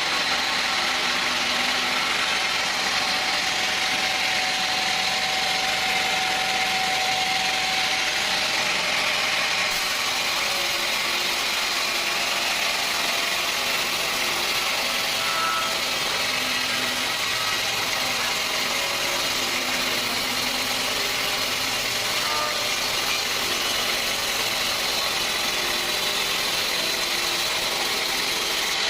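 Sawmill machinery running steadily, a constant mechanical noise with no breaks.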